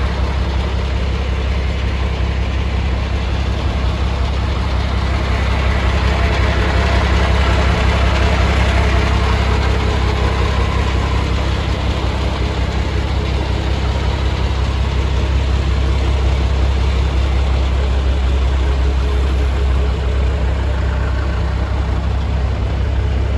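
Scania 92M truck's diesel engine idling steadily, swelling slightly a few seconds in before settling back.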